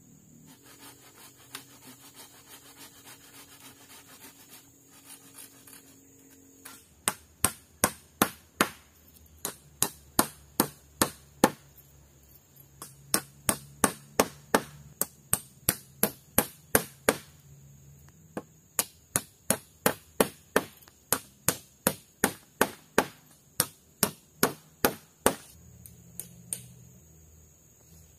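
Hammering on wood: a long run of sharp, evenly spaced knocks, about two or three a second, with a couple of short breaks. It is preceded by a few seconds of faint rubbing.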